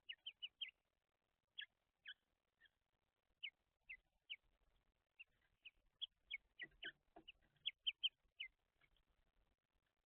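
Small birds giving short, sharp call notes, each a quick downward slide in pitch, scattered irregularly and sometimes in quick runs of two or three; faint.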